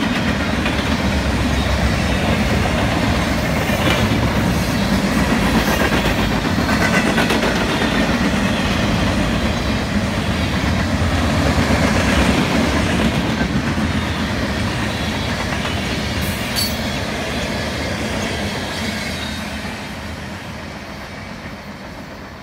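Mixed freight train's tank cars and boxcars rolling past at close range, with steady wheel clatter on the rails. The sound fades over the last few seconds as the end of the train moves away.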